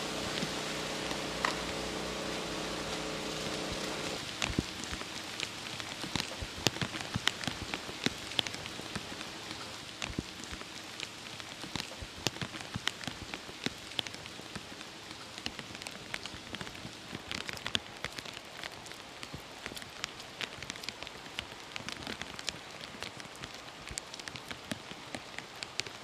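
Heavy rain pouring onto a street: a steady hiss with many close drops ticking sharply on hard surfaces. For the first four seconds or so, a vehicle engine hums under the rain, then stops abruptly.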